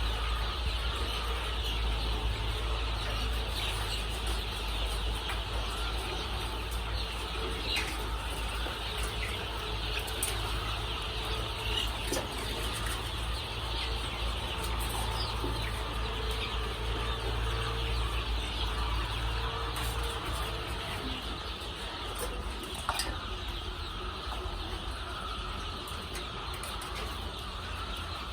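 Many layer chicks cheeping at once, a dense, steady chatter, over a low mechanical hum.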